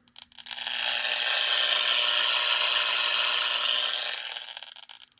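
Static hiss from the small speaker of a homemade sound circuit fitted in an HO-scale Athearn Bluebox boxcar. It swells as the car is brought closer to a desk light and fades away near the end.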